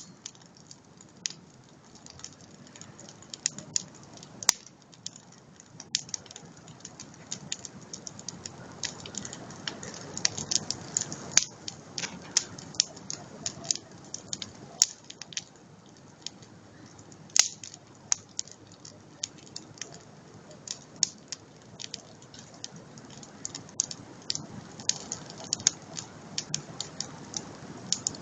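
Campfire crackling: frequent irregular sharp pops and snaps, a few noticeably louder than the rest, over a faint steady rush.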